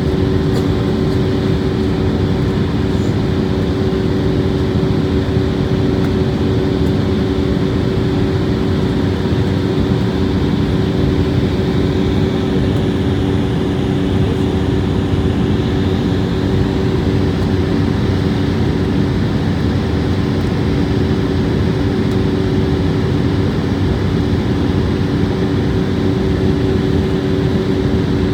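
Steady cabin noise inside a jet airliner in flight: an even rush of air and engine drone with a couple of steady low hums, unchanging throughout.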